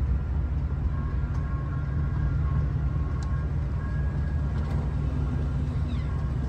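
Steady low rumble of a truck's engine and road noise, as heard inside the cab.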